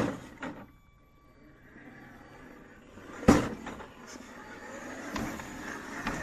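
Traxxas TRX-4 Blazer RC rock crawler working over rocks: its electric motor and drivetrain whir steadily while the tyres and chassis knock sharply on stone, the loudest knock about three seconds in.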